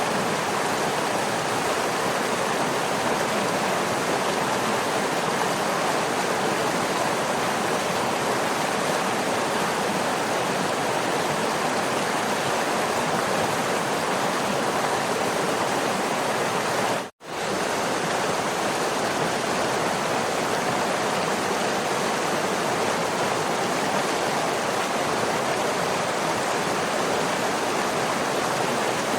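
Steady rush of a waterfall, cutting out for a split second about seventeen seconds in.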